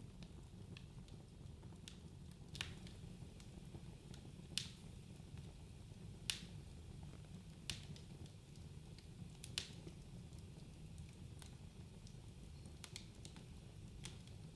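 Wood fire burning in a fireplace: a steady low rumble of the flames with sharp, irregular crackles and pops of the burning logs, a handful of them loud.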